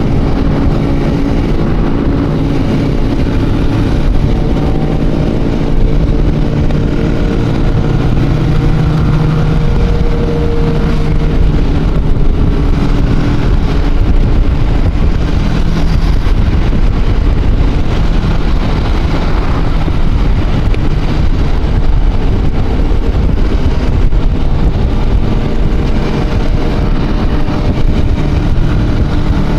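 Exhausts of many motorcycles riding together in a large group, heard from one of the moving bikes: a steady, loud, overlapping engine rumble.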